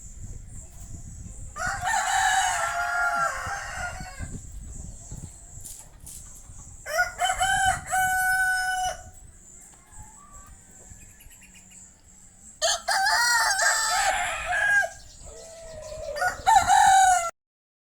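Rooster crowing four times in long, loud crows, the last one cut off suddenly near the end.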